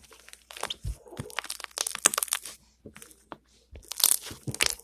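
Slime being squeezed and poked by fingers, with air bubbles in it popping and crackling in quick clusters of sharp clicks.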